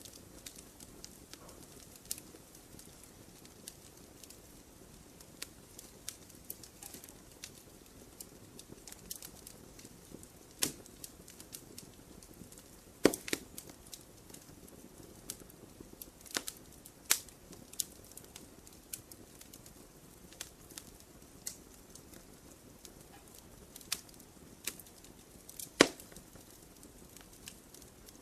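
Wood campfire crackling: irregular sharp pops and snaps over a low, steady hiss of burning, with two louder snaps, one about halfway through and one near the end.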